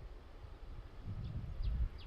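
A few short, falling bird chirps over a low, gusty rumble of wind on the microphone, which swells in the second half.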